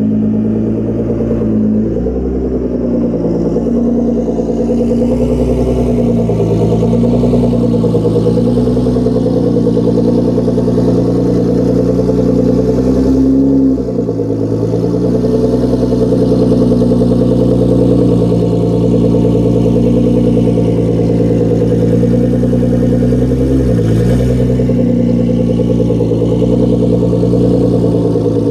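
Nissan GT-R R35's twin-turbo 3.8-litre V6 idling steadily, its exhaust note shifting slightly in pitch a few times.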